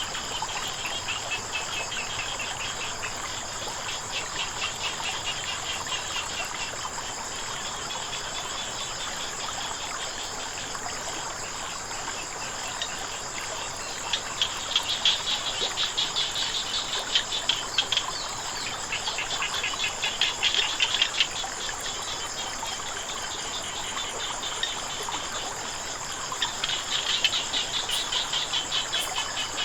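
Night chorus of insects keeping up a steady high-pitched trill, with small frogs breaking in several times with bouts of rapid pulsed calls a few seconds long. Flowing water makes a soft even wash beneath.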